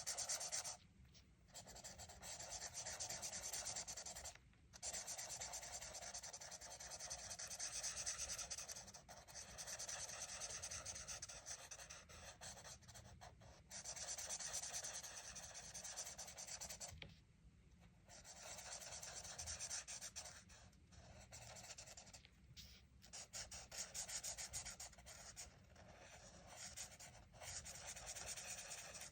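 Colouring in a colouring book: rapid back-and-forth strokes of a colouring tool rubbing and scratching on paper, with a few short pauses where the tool is lifted, the longest a little past halfway.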